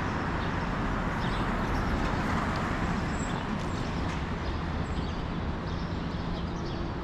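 Large bus engine running at idle, a steady low hum over constant street traffic noise.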